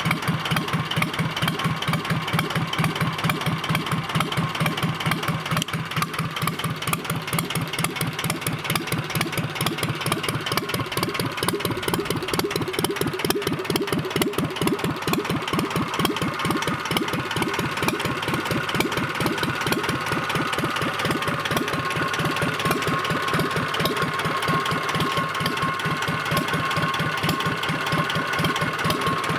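Yanmar 2GMFY two-cylinder marine diesel engine running steadily, with an even, rapid rhythm of firing pulses.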